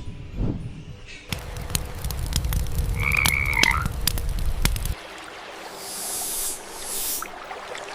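Frogs calling in a chorus of rapid clicks and croaks, with one short whistled call near the middle. About five seconds in, the sound cuts to a quieter hiss.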